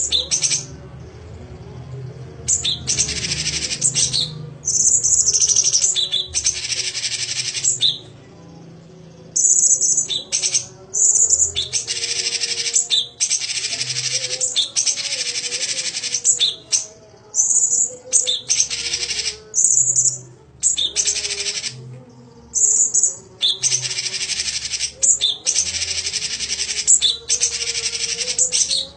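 A songbird sings a rapid, shrill chattering trill about every second or two, each phrase lasting up to a second and a half, with short high chips between phrases. It is a recorded song fill (isian) of the kind played to train competition songbirds.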